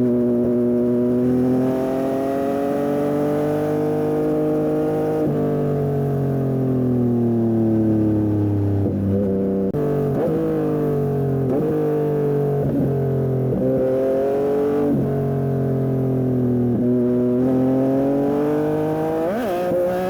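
Yamaha MT-09 SP's three-cylinder engine through a Dominator aftermarket exhaust, under way and revving. The pitch climbs slowly and eases off over the first half, then goes through a run of quick sharp revs and drops, with another sharp rev near the end.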